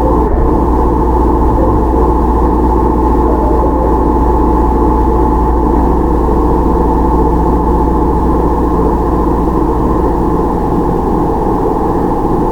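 Toyama Chiho Railway 17480 series electric train (ex-Tokyu 8090) running, heard from on board: a steady low rumble with a high ringing tone held throughout and a lower tone joining about halfway.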